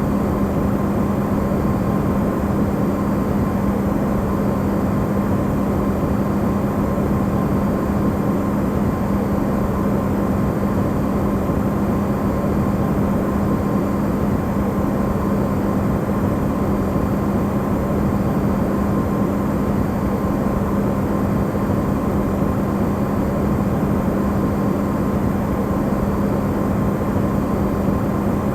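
Amplified recording of an Electrolux refrigerator running: a steady low hum over an even rushing noise, with no change throughout.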